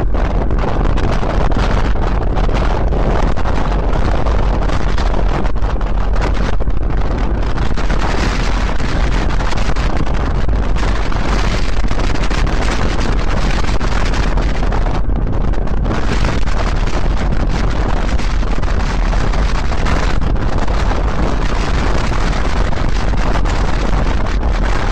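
Loud, steady wind buffeting the microphone of a camera riding along on a moving bicycle, a deep, even rush of air.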